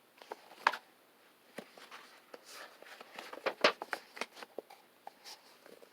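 Faint rustling and light clicks of paper being handled, as of a picture-book page being turned.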